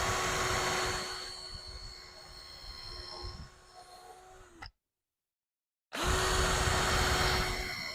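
Power drill boring holes in 2x6 lumber, run twice: each run starts suddenly with a steady motor whine that winds down as the drill stops, with about a second of dead silence between the runs.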